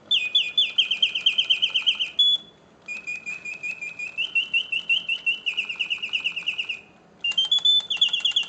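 1971 Reuge double singing bird cage automaton playing its mechanical birdsong: its bellows-driven whistle gives rapid chirping trills that step up and down in pitch, in three phrases with two short pauses between. The song is loud, strong and clear.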